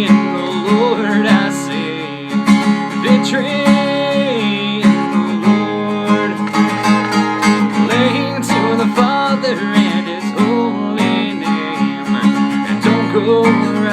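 Acoustic guitar strumming a country song, with a voice singing along.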